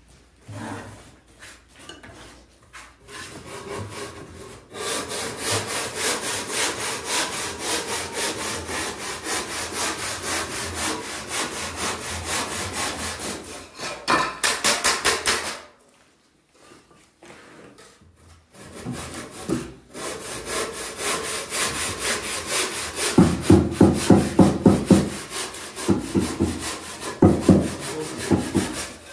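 Hand saw cutting with steady back-and-forth strokes, stopping for a couple of seconds just past halfway and then sawing on again.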